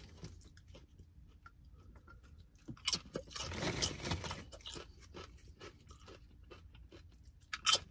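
A person chewing a crunchy chip loaded with chunky salsa. Soft crunches at first, a louder stretch of chewing about three seconds in, and one sharp crunch near the end.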